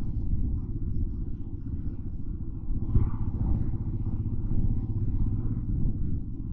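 Motorcycle running on the move through city traffic: a steady low rumble.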